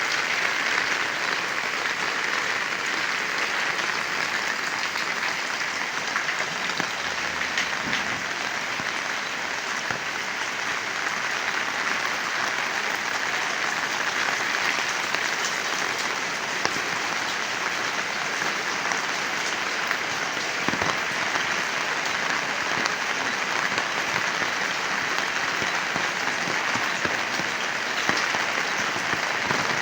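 Heavy rain pouring steadily: a dense, even patter of drops that holds at the same level throughout.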